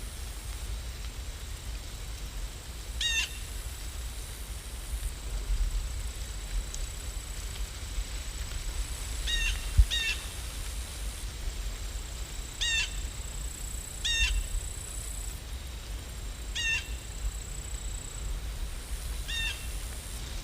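A bird giving short, harsh calls, seven in all at irregular intervals, two of them in quick succession, over a steady low rumble.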